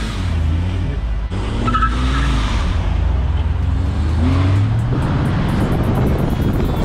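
Performance car engine running and accelerating, its pitch climbing about four seconds in.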